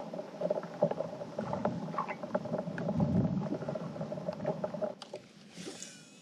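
Small clicks and knocks of gear handling aboard a fishing kayak over a steady faint hum, which fade out about five seconds in. Near the end comes a brief high call that falls in pitch.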